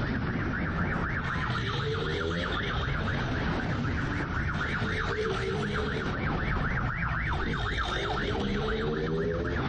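Police siren yelping rapidly and continuously over a motorcycle engine, which revs up in rising pulls a few times.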